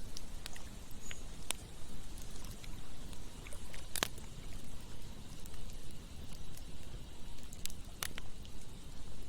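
Campfire crackling, with scattered sharp pops, the loudest about four seconds in and again near eight, over the steady rush of flowing river water.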